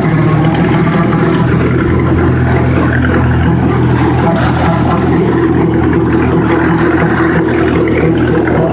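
Farm tractor engine running steadily at raised throttle, driving a brush hog (rotary cutter) through the engaged PTO.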